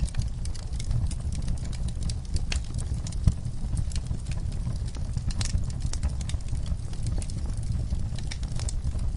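Wood fire in an outdoor fire pit crackling: scattered, irregular sharp pops over a steady low rumble, with one louder pop about three seconds in.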